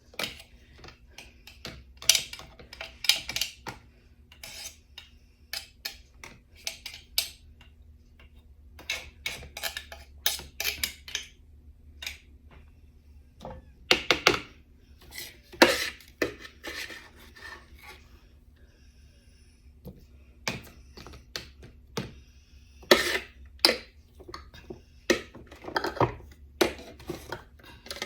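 Kitchen utensils scraping and clinking against dishes and a glass jar in irregular clusters, with short quiet gaps: minced garlic being scraped off and spooned into the jar.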